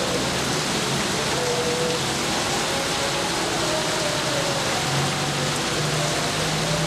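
Steady rain falling, an even hiss with no thunderclap; faint held tones sit beneath it.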